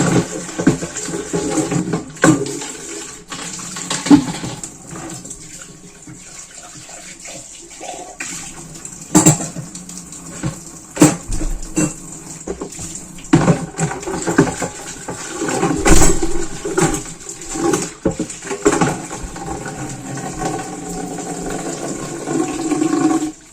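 Water running or pouring, with irregular knocks and clicks scattered through it.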